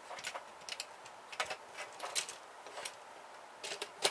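Scattered light clicks and taps of small metal and plastic printer parts being handled and pried at during disassembly, irregularly spaced with no steady rhythm.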